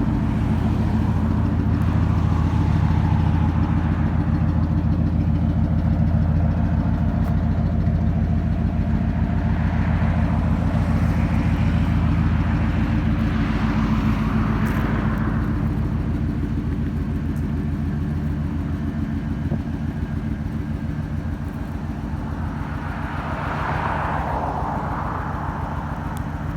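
1979 Ford F-100 pickup's engine idling steadily, close up.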